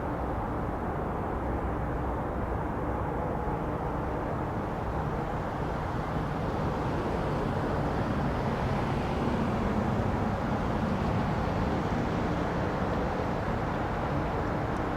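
Boeing 777 jet engines rumbling steadily as the airliner comes in to land, the noise swelling a little midway through.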